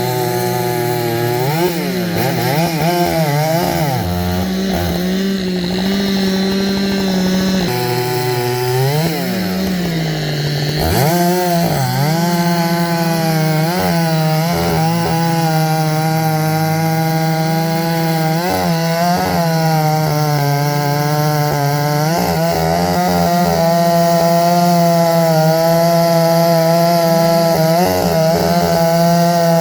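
Gas chainsaw running at high revs while cutting poplar wood; the engine's pitch repeatedly sags as the chain bites into the cut and then picks back up, with two longer, deeper bogs in the first ten seconds or so.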